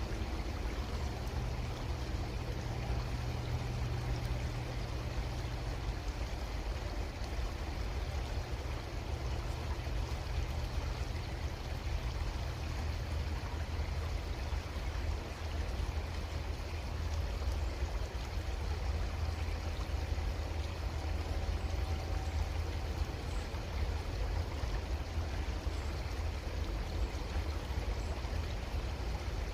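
Creek water flowing steadily, an even rushing with a strong low rumble underneath. A faint low hum sits under it and stops about six seconds in.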